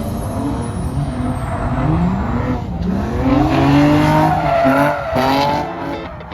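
Drift car's engine revving hard up and down with tyre squeal, loudest about three to five seconds in.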